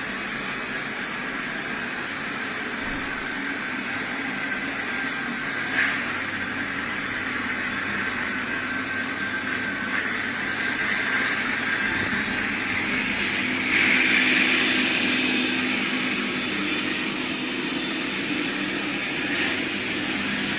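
iRobot Roomba Plus 405 Combo robot vacuum-mop running: a steady motor whir over a low hum, with a short click about six seconds in and a louder stretch around fourteen seconds.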